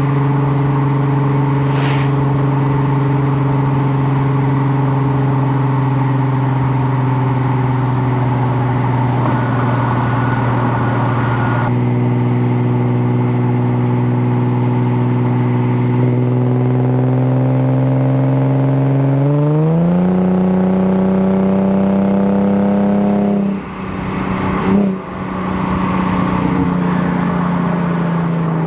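Lexus RC 350's 3.5-litre V6 through a budget axle-back exhaust, running at a steady cruise for a long stretch. Its note then climbs as the car speeds up, drops away briefly with a rush of noise, and settles back to a steady note.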